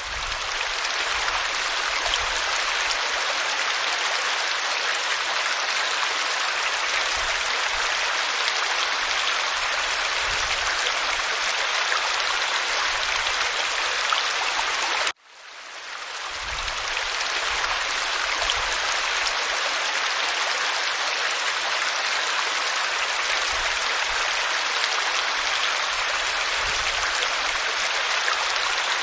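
Waterfall pouring over rock, a steady rushing of water. About halfway through it cuts out suddenly and swells back in over a second or two, like a loop restarting.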